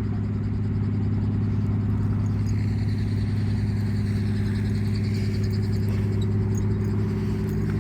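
Helicopter running on the ground, warmed up before take-off: a steady, even hum from its engine and rotor, with a faint high whine that wavers in the middle.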